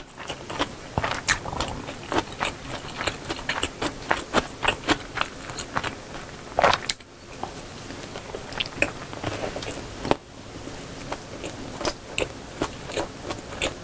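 Close-miked chewing of gimbap (seaweed-wrapped rice roll): a steady run of small wet mouth clicks and smacks, several a second, with one longer, louder burst about seven seconds in.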